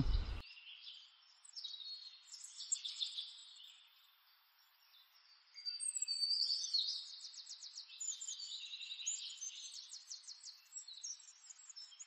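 Birds chirping and trilling, with fast repeated trill notes in the second half and a brief lull about four seconds in.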